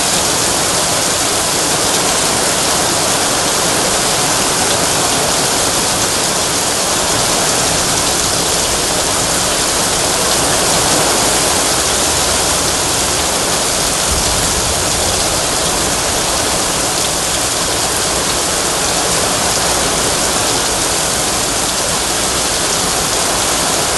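Heavy rain pouring onto an asphalt street: a dense, steady hiss of drops splashing on the road surface.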